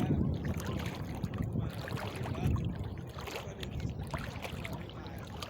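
Wind rumbling on the microphone over moving water, with scattered light knocks and splashes.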